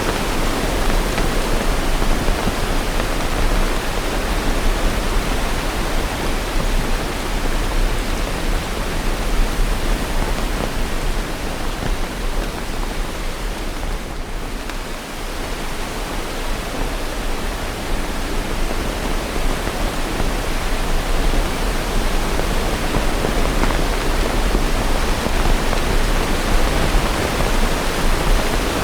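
Steady, heavy rain: an even, full hiss with no thunder and no separate drops standing out. It dips slightly for a moment about halfway through.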